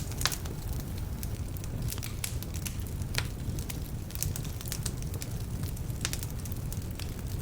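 Wood fire burning in a fireplace: a steady low rumble of flames with irregular sharp crackles and pops from the logs, some of which are damp.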